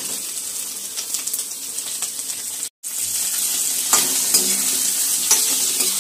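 Boiled potato cubes, peanuts and cumin sizzling in hot ghee in a steel kadhai. The sound cuts out for an instant near the middle, then a perforated steel spoon scrapes and clicks against the pan as they are stirred, over a louder sizzle.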